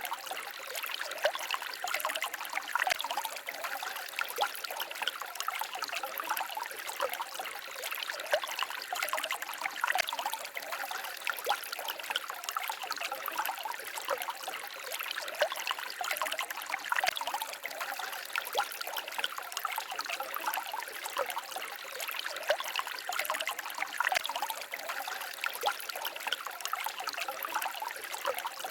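Small forest stream babbling and trickling over stones, a steady splashing with many small quick gurgles and no let-up.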